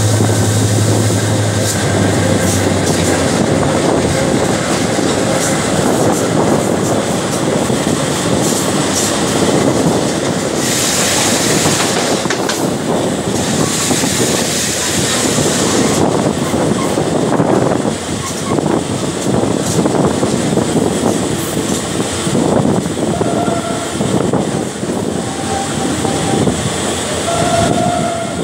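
SNCFT locomotive 040-GT 569 and its train running at speed, heard from an open coach window just behind the engine: engine noise, wheels clattering on the rails and rushing wind. A low hum in the first few seconds, a burst of hiss about midway, and a few short pitched tones near the end.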